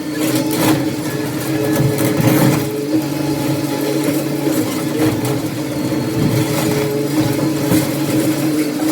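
Heavy demolition machine's engine running steadily, with scattered knocks and clatter of debris over it.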